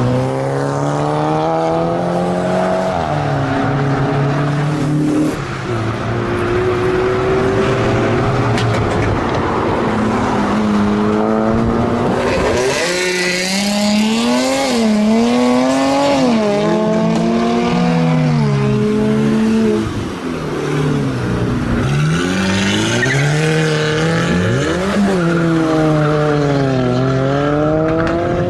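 Performance car engine revving hard through a loud exhaust, its pitch repeatedly climbing and dropping in quick swings. Tyre squeal joins in around the middle for a few seconds.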